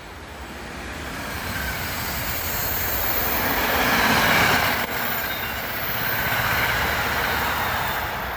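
Passenger train passing at speed: a rush of wheel and rail noise that builds over about three seconds, peaks as the cars go by, then fades away.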